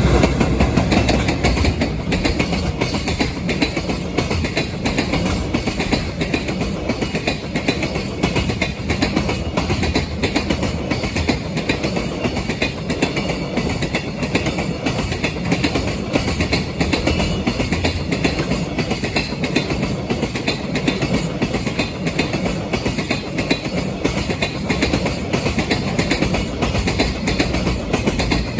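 Freight train passing close by, the wheels of its wagons running steadily over the rails.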